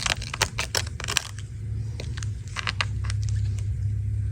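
Quick run of small clicks and taps from handling and cleaning a grimy iPad, easing off after about a second into a few scattered clicks, over a steady low hum.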